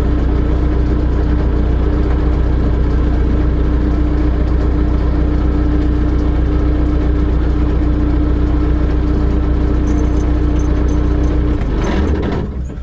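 Telehandler's engine running steadily, with a deep hum and a steady whine, then dropping away about twelve seconds in.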